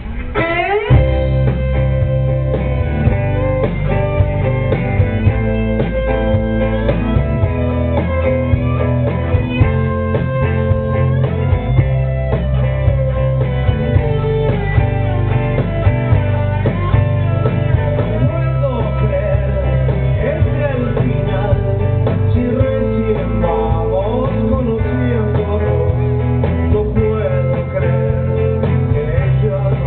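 Live rock band playing a song, kicking in about a second in with guitar over steady bass and drums. The sound is dull, with no high treble.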